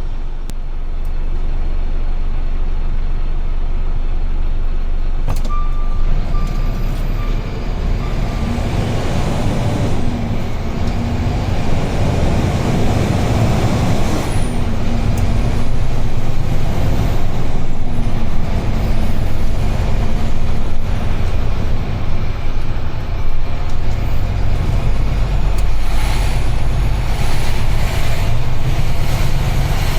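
UD Trucks Quon heavy truck under way, heard from the driver's seat: steady engine and road rumble, with an engine tone that shifts down in pitch in steps through the middle stretch. A few short high beeps sound about six to eight seconds in.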